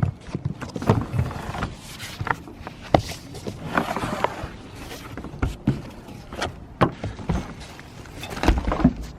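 Handling of a folding Goal Zero Nomad 100 solar panel: a run of irregular knocks and clicks with rustling as the panel is folded and closed up.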